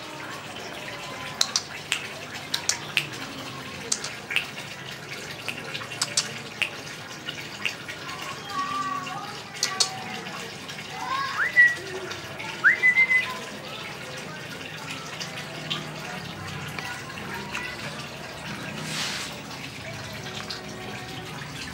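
Cockatiel giving two short rising whistled chirps near the middle, among scattered sharp clicks, over a steady hiss.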